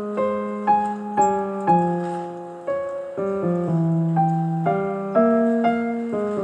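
Piano music: a slow, gentle melody over sustained low notes, with notes struck about twice a second, each fading after it is struck.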